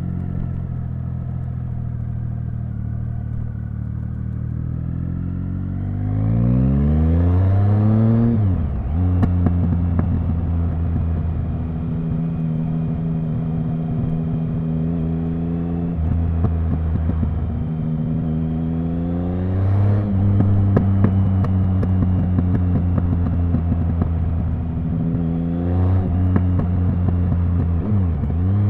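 Triumph Speed Triple 1050's three-cylinder engine running steadily at low revs, then rising in pitch about six seconds in and falling off sharply with crackling from the exhaust. It then runs on at low revs with more crackles, with further rises in pitch around twenty and twenty-six seconds in.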